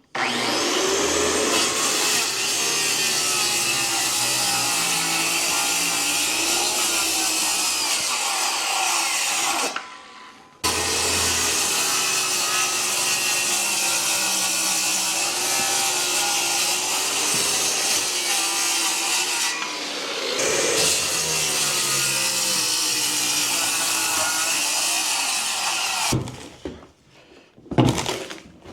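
A power saw running under load through material, in two long cuts with a short stop about ten seconds in and a brief dip near twenty seconds. A few knocks follow near the end.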